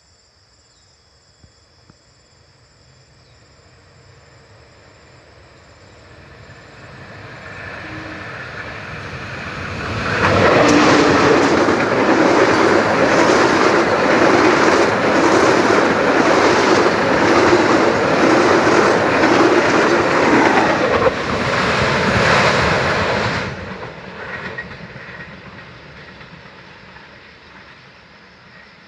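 A KAI passenger train passing close by. Its rumble builds as it approaches, then the coaches roll past loudly for about thirteen seconds with a rhythmic clickety-clack of wheels over the rail joints. The sound drops off suddenly as the last coach goes by and fades into the distance.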